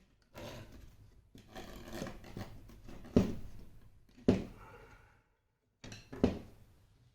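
Welding rod being bent and worked by hand around a parasol's head: rubbing and scraping, with three sharp metallic clicks, the middle one ringing briefly.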